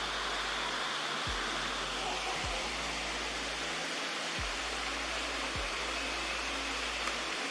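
Madison Falls, a waterfall, rushing steadily, with low background music whose bass notes change every second or two.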